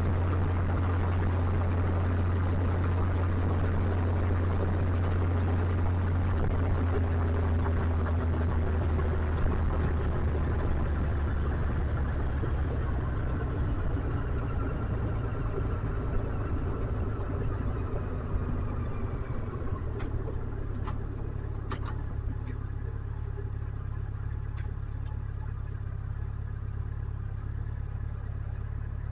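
Motorcycle engine running, its note gently falling as the bike slows and then running quieter and lower for the rest of the time.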